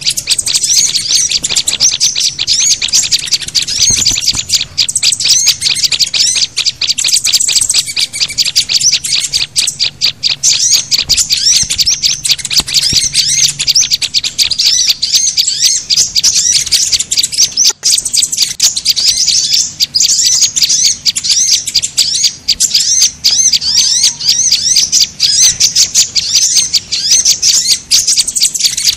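Dense, unbroken chorus of small songbirds chirping and twittering rapidly in high voices, from a bird-lure recording that mixes the calls of sunbirds, white-eyes (pleci), prinias (prenjak) and flowerpeckers (cabe-cabean).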